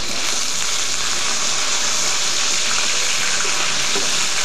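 Diced pork sizzling in hot oil in a frying pan, a steady hiss as the meat sears.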